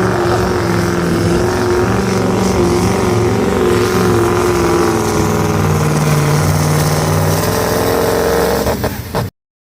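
Supersport pulling truck's diesel engine running hard at high revs under load during a pull, a loud steady drone with slight rises and dips in pitch. It cuts off suddenly near the end.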